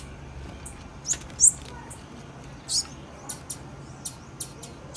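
Female blue-black grassquit (tiziu) calling: short, high, thin chirps scattered irregularly, about a dozen, the loudest about a second and a half in.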